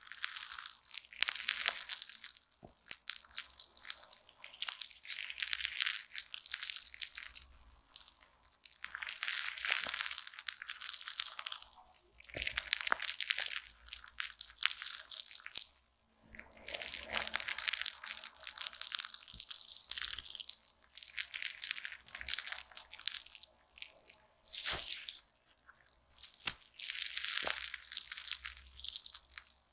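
Slime being squeezed and worked close to the microphone, giving a dense crackling and popping made of many tiny clicks. It comes in bouts of a few seconds with short breaks between them.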